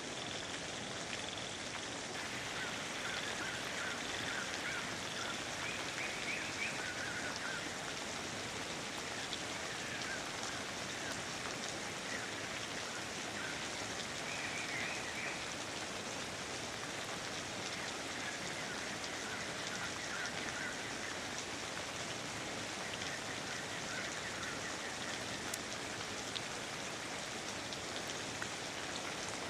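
Steady rain falling, an even hiss, with short chirping animal calls coming and going every few seconds.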